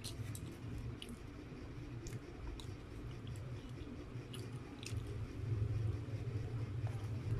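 Close-miked chewing and mouth sounds of a person eating, with scattered sharp clicks, over a steady low hum.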